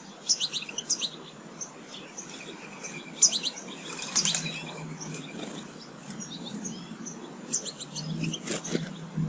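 Small garden songbirds chirping and twittering, in quick runs of short high calls with brief pauses between, over a faint low rumble.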